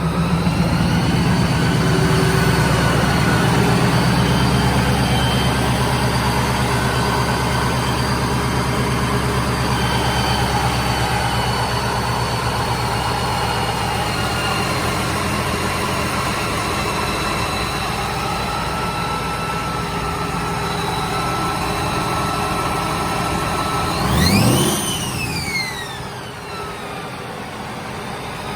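Ford SVT Lightning's supercharged 5.4-litre V8 idling with a steady high whine from its cogged supercharger drive. Near the end, one quick blip of the throttle sends the whine sharply up and straight back down.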